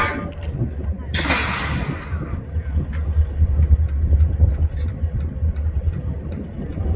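Diesel locomotive running with a steady low rumble, with a loud burst of hiss about a second in and faint scattered metallic ticks.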